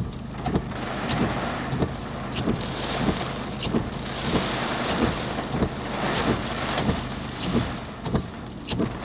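Torrential rain pelting a moving car, heard from inside, over a steady low hum, with a regular thud about every two-thirds of a second.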